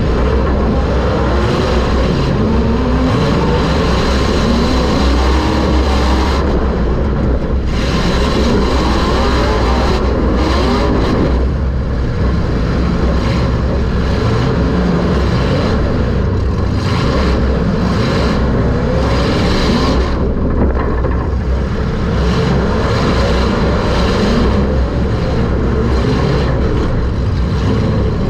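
Super Stock race car's engine heard loud from inside the cockpit, its pitch rising and falling as the driver gets on and off the throttle, over a heavy low rumble.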